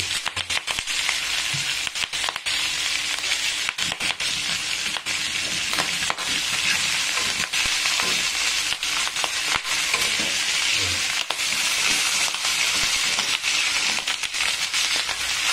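Chicken feet sautéing in hot oil in a wok: a steady sizzle with scattered pops and crackles.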